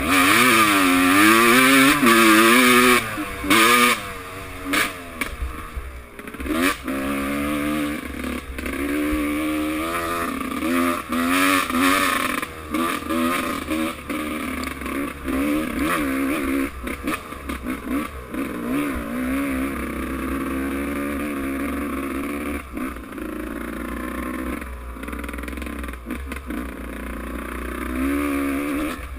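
Motocross motorcycle engines revving, their pitch rising and falling again and again as the bikes accelerate and ease off. Loudest over the first few seconds, then running on a little lower.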